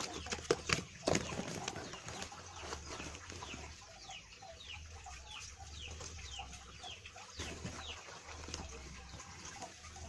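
Chickens calling: a run of short, high, falling chirps, several a second, with some lower clucks among them. A few sharp knocks come in the first second or so.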